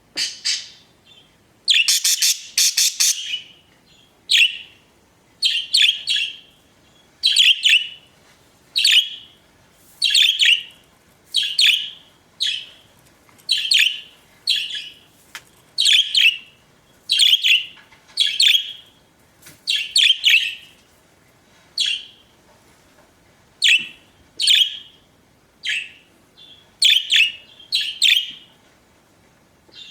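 Budgerigars chirping: short, sharp calls repeated about every second and a half, with a burst of rapid chatter about two seconds in.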